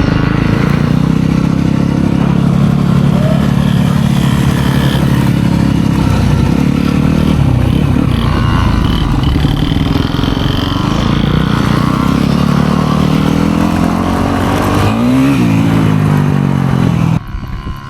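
Dirt bike engine running at a steady, fairly high speed with a rush of wind noise. About fifteen seconds in the revs climb and then fall away. The sound cuts off abruptly near the end.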